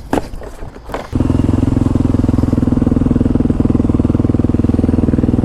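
A few knocks and rustles, then about a second in a motorcycle engine comes in abruptly and runs steadily at idle with a fast, even pulse.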